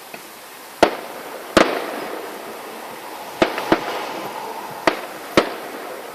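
Fireworks going off: six sharp, irregularly spaced bangs of bursting shells, with crackling in between.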